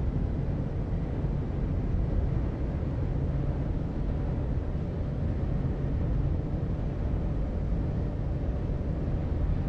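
Volvo FH16 750 heavy-haulage truck's 16-litre straight-six diesel running with a low, steady rumble.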